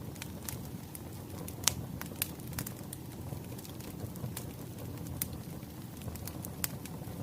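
Burning firewood crackling: a steady low rumble with irregular sharp pops and snaps, several each second, the loudest a little under two seconds in.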